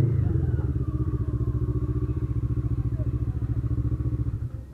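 Honda CB500 parallel-twin engine idling with an even, rapid exhaust pulse as the bike creeps into a parking spot, then switched off near the end.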